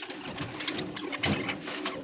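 A flock of budgerigars chattering, a dense run of quick high chirps, with a steady low hum underneath.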